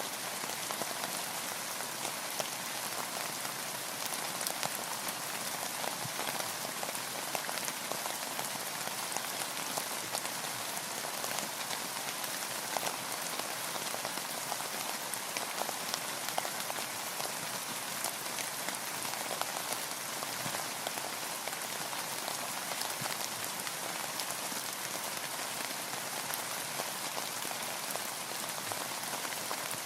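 Steady rain falling on a boat, a dense patter of individual drops over an even hiss.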